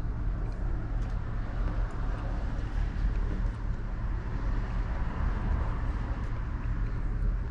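Lifted 2006 Chevy Silverado pickup driving, a steady engine and road-noise rumble.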